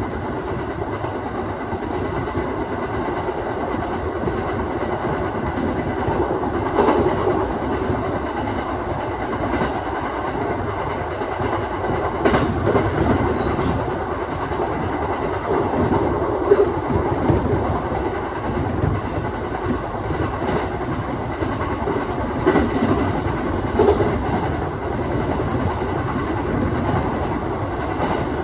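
Aoimori Railway 701 series electric train running along the line, heard from inside the car: a steady rumble of wheels on rail, with a few separate clacks over rail joints.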